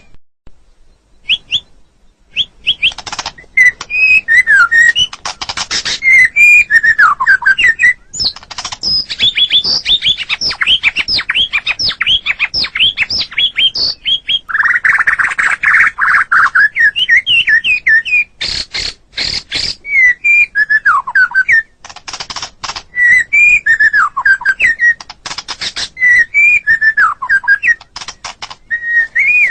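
White-rumped shama singing a long, varied run of quick whistled phrases and down-sliding notes, mixed with rapid clicking chips. About halfway through comes a harsher, buzzier stretch.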